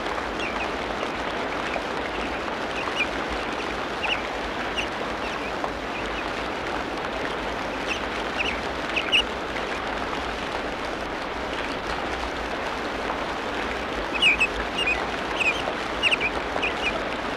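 Tropical rainforest ambience: a steady hiss under scattered short bird calls, with a cluster of calls about nine seconds in and a livelier run of them near the end.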